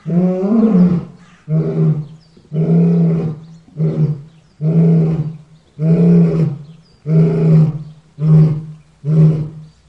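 Lion roaring: a string of about ten deep calls, roughly one a second, the first ones long and the later ones shorter and coming faster near the end.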